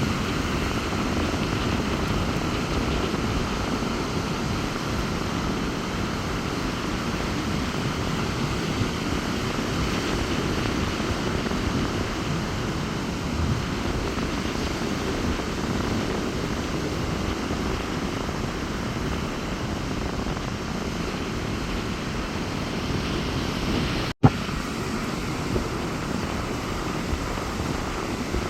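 Rough sea breaking on the beach, with strong wind buffeting the microphone as a steady, heavy rumble. The sound cuts out for an instant near the end.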